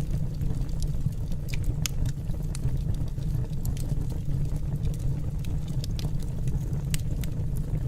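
Wood fire burning in a fireplace, crackling: scattered sharp pops at irregular intervals over a steady low rumble.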